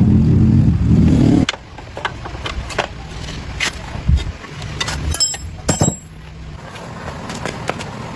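An engine running loudly and steadily, which stops abruptly about a second and a half in. After it come scattered knocks and clicks, with a sharp metallic clatter about five to six seconds in.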